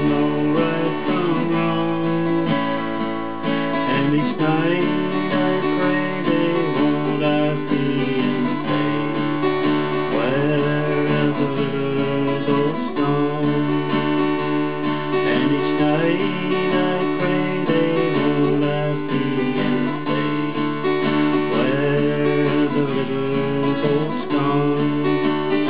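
Instrumental folk music: strummed acoustic guitar under a sliding melody line, with no words sung.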